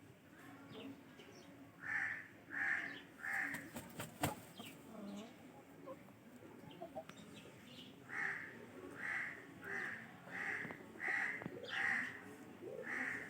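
Aseel chicken calling in short, evenly spaced notes: three notes, a pause, then a longer run of about seven. There is a brief burst of sharp clicks about four seconds in.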